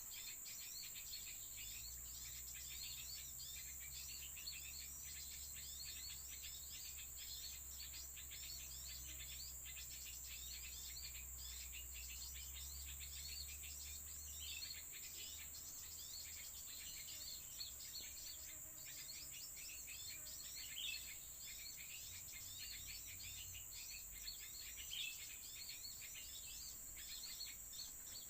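Small birds chirping in quick, busy runs throughout, over a steady high insect buzz.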